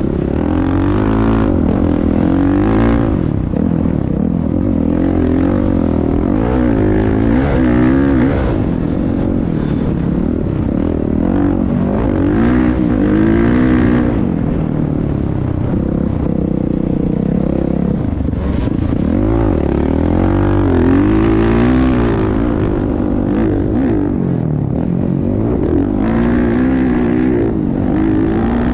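Motocross bike engine revving up and down over and over as it is ridden, its pitch rising and falling every second or two.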